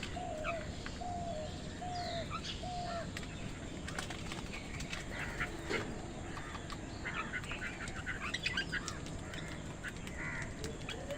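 Crows and common mynas calling. Five short, even, low calls are repeated in the first three seconds, then several birds give a scatter of higher chirps and squawks, over steady background noise.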